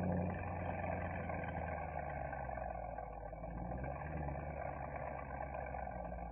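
Mercedes-AMG SL63's V8 engine and exhaust running steadily, with no revving.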